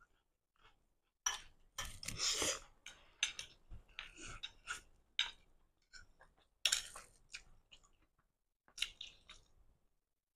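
Close-miked chewing of stir-fried rice noodles, wet mouth sounds in irregular bursts starting about a second in, with occasional light clicks of chopsticks and a fork against a ceramic plate.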